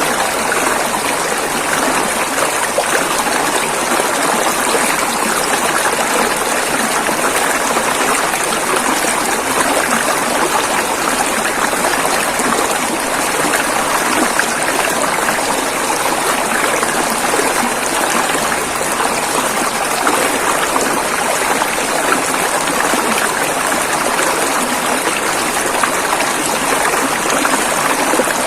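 River water rushing and flowing over rocks, a steady, unbroken wash of water noise.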